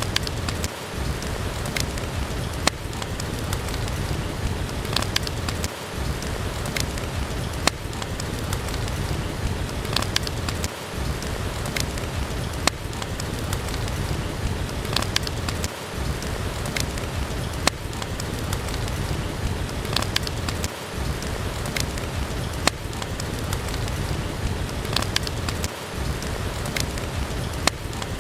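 Steady heavy rain with a deep rumble underneath, dotted with sharp crackles and pops from a wood fire burning in a fireplace.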